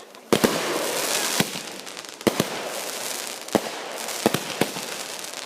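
Consumer fireworks finale going off: an irregular string of sharp bangs, some in quick pairs, over a continuous crackling hiss.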